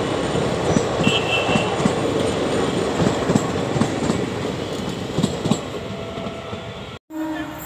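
Indian Railways passenger coaches rolling past close by, their wheels knocking over rail joints in an uneven clickety-clack over a steady rumble, with a brief high squeal about a second in. The sound fades as the last coach goes by and cuts off abruptly about seven seconds in.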